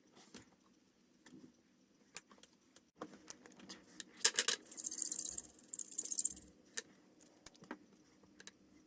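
Small clicks and taps of art supplies being handled, with a loud cluster of clicks about four seconds in and a scratchy, hissing rustle for a second or two just after.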